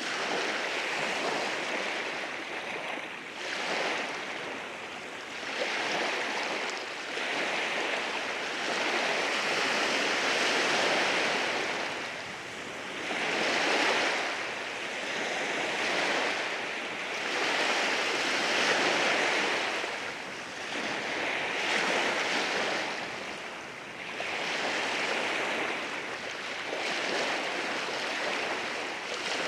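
Ocean waves washing in over rocks, a continuous rushing surf that swells and eases every few seconds as each wave breaks and drains back.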